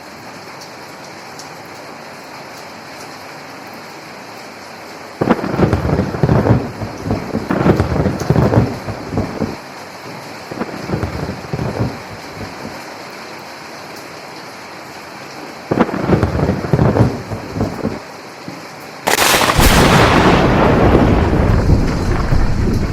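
Steady rain with three claps of thunder rolling over it: the first about five seconds in, a shorter one past the middle, and the loudest, longest one near the end.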